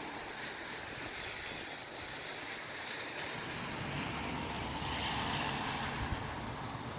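Gusty wind rushing, building to a stronger gust about five seconds in.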